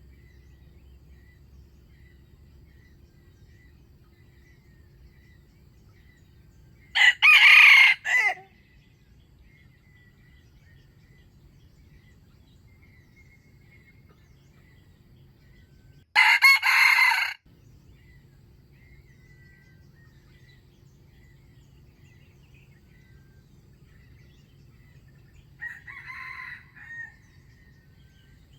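Rooster crowing: two loud crows about nine seconds apart, then a fainter crow near the end.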